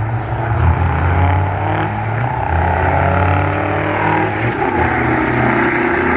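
Big-rig diesel truck engines running loud, the engine note shifting a couple of times as they rev.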